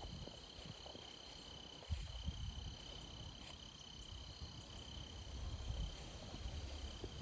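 Crickets trilling steadily in one unbroken high tone, with low, irregular thuds and rustling from footsteps on the trail.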